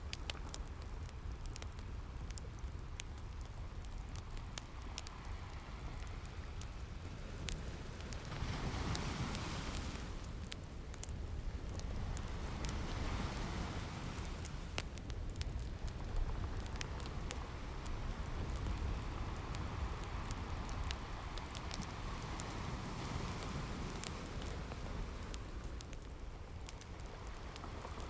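Ocean waves washing in and drawing back, swelling and easing under a steady low rumble, mixed with a crackling wood fire whose small pops and snaps run throughout.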